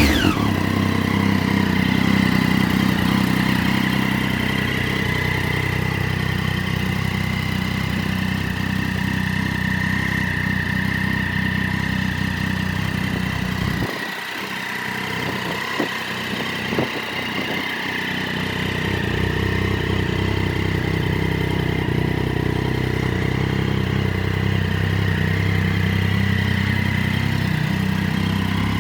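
Triumph Daytona 675's inline three-cylinder engine idling steadily after a rev. About halfway through, the low rumble briefly drops away, with a few light clicks.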